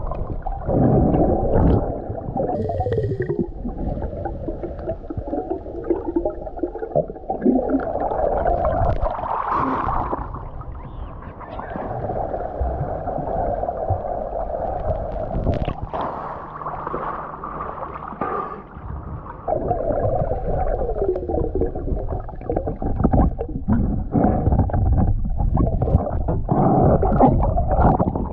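Fresh engine oil glugging and gurgling as it is poured from a container into the boat's diesel engine. The flow goes on with falling gurgles and eases briefly a couple of times.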